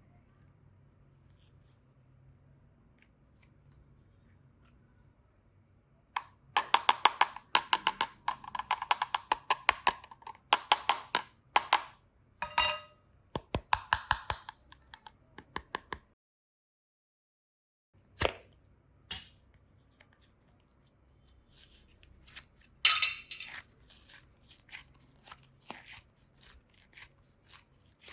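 Slime mixed with modelling clay being squeezed and worked by hand, making quick runs of sharp clicks and pops. The pops come in bursts after a quiet start, stop dead for about two seconds midway, then return more sparsely.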